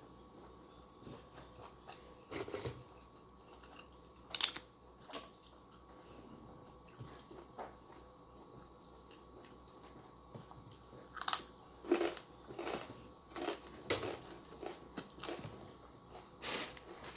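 Mouth sounds of eating chicken biryani and a crisp cracker by hand: chewing with a string of short, sharp crunches, the loudest about four seconds in and more of them packed into the last six seconds.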